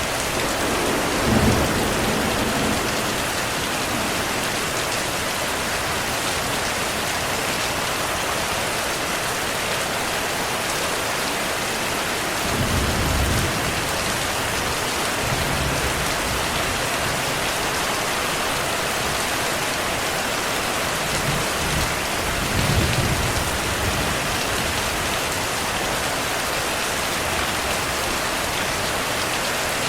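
Steady rain falling, with low thunder rumbling three times: about a second in, around the middle, and again about two-thirds of the way through.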